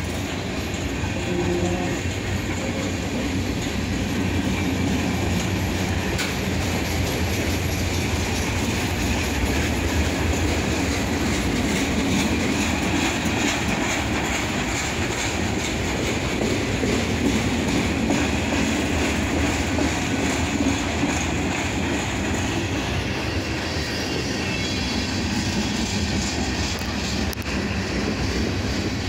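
Freight train of loaded flatcars rolling steadily past at speed: continuous rumble and clatter of steel wheels on the rails.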